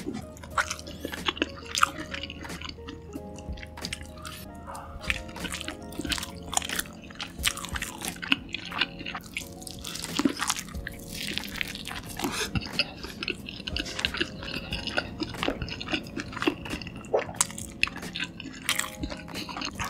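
Close-miked mukbang eating sounds: a person biting and chewing a burger soaked in cheese sauce, with many short wet mouth clicks and smacks. Background music plays steadily underneath.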